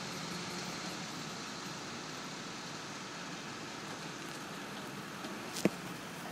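Crane truck's engine running steadily, with one sharp knock about five and a half seconds in.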